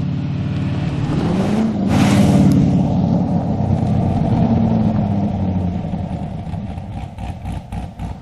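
A C6 Corvette's V8 engine as the car drives past. The engine note rises as it approaches, is loudest as it passes about two seconds in, then drops in pitch and fades as it drives away. A few light clicks come near the end.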